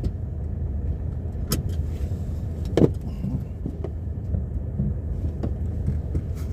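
Car running with a steady low rumble, with a few light clicks and a short knock about three seconds in.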